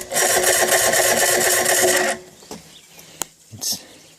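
Electric starter cranking a Chrysler 75 hp outboard motor for about two seconds, struggling a little and not firing, then stopping abruptly. A single sharp click follows about three seconds in.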